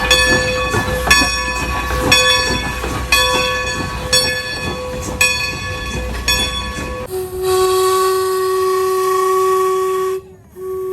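Steam locomotive bell ringing about once a second over the hiss and rumble of the engine. About seven seconds in, the steam whistle gives a long, steady blast, breaks off for a moment near ten seconds, and sounds again.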